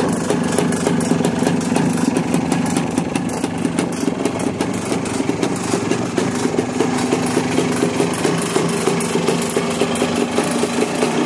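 1974 Honda Elsinore's two-stroke single-cylinder engine idling steadily, with a fast, even run of firing pulses.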